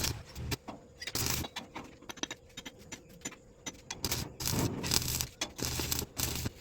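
Metal clinks and knocks with several longer scraping bursts from hand-tool work on a car's dented sheet-metal body panels.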